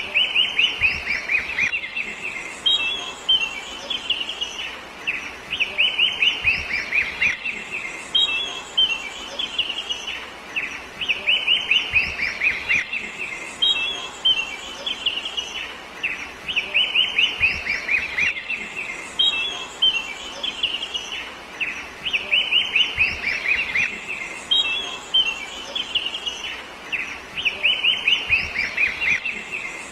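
A bird singing the same phrase over and over, a quick run of rapid descending chirps followed by a few short notes, repeating about every five and a half seconds.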